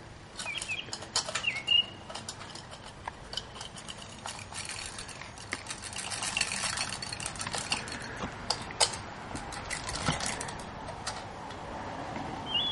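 A shot-up can being handled: irregular metallic clicks and rattles, thicker in the middle. Birds chirp briefly in the first couple of seconds.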